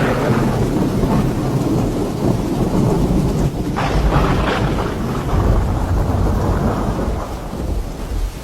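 Thunder rumbling over steady rain, with a sharper crack of thunder about four seconds in; the rumble dies away near the end.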